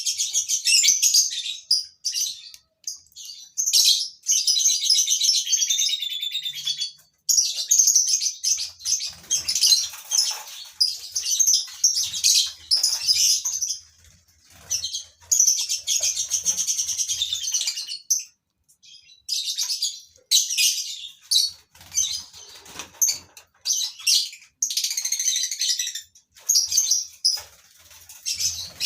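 A flock of lovebirds chattering and chirping in shrill, overlapping bouts of a second or two, with short gaps between bouts. Low wing flutters can be heard under the chatter in places.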